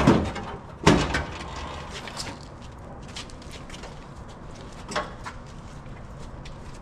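Two loud knocks about a second apart, then scattered light clicks and a smaller knock about five seconds in: parts and tools knocking during work on the truck's cab.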